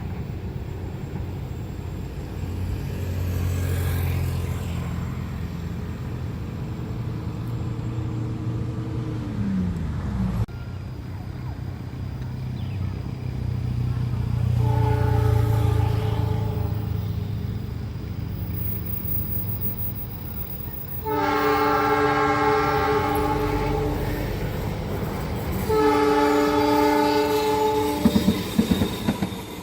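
Passing train rumbling on the rails, with a pitched tone sliding down partway through. It then sounds its horn three times: a short blast about halfway, a long blast later, and another soon after. Wheels clack over the rail joints near the end.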